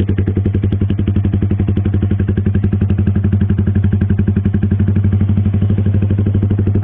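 Yamaha R15 V3's single-cylinder four-stroke running at steady low RPM through an aftermarket WRX GP6 MP1 slip-on silencer with its full baffle fitted, an even, loud exhaust pulse with no revving.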